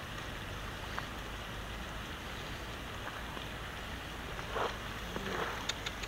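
Chopped chicken sizzling as it fries in a wok over a wood fire, a steady crackling hiss. From about four and a half seconds in, a bamboo spatula scrapes and stirs the meat against the wok, adding a few louder scrapes and clicks.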